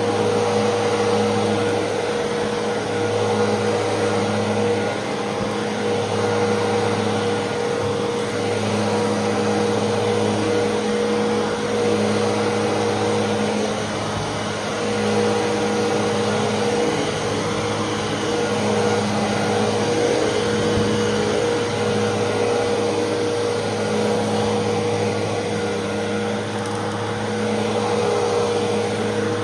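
Fantom Fury 10-amp upright vacuum cleaner running steadily, its motor holding one steady pitch with small rises and falls in loudness.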